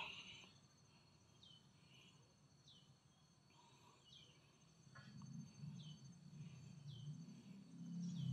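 Quiet rural ambience: a bird repeats a short falling chirp about once a second over a faint, steady, high insect drone. A low rumble comes in about halfway through.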